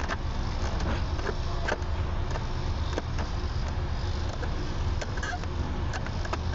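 Steady low rumble of a moving vehicle heard from inside, with scattered clicks and rattles.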